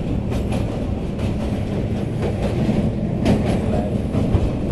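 Train running over a railway bridge, heard from aboard: a steady rumble with the wheels clicking irregularly over the rails.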